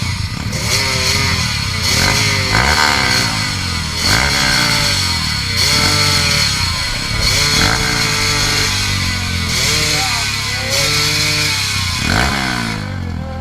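Dirt bike engine revving hard on a hill climb, the throttle opened and closed again and again so the pitch keeps rising and falling every second or two.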